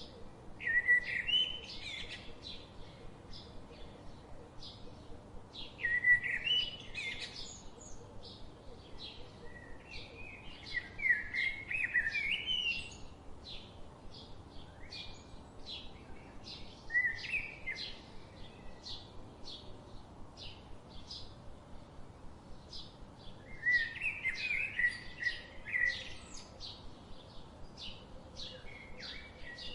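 Birds chirping and singing: a steady run of short high chirps about two a second, with louder warbling song phrases breaking in five times.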